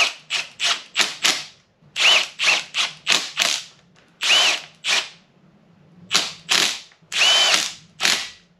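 Power drill running bolts in with a dozen or so short trigger bursts, its motor whine rising and falling in pitch, and one longer run about seven seconds in. The bolts are the small cylinder-head bolts being run down on a 6.0 LS engine.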